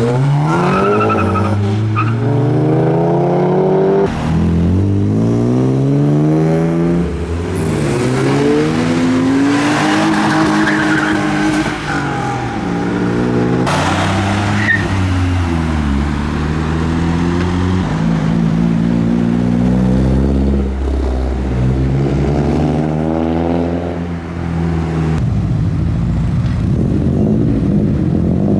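Modified cars accelerating hard away, engines revving up through the gears: the pitch climbs, drops at each shift and climbs again, many times over.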